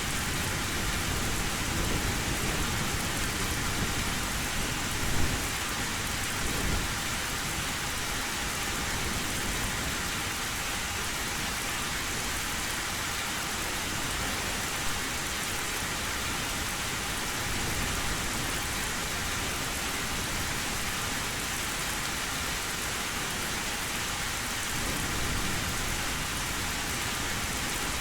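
Heavy rain drumming steadily on a metal roof, with low rolling thunder rumbling underneath.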